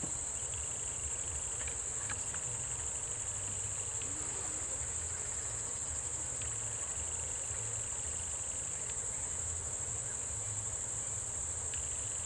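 Steady chorus of insects, a continuous high-pitched trill without a break, over a faint low rumble.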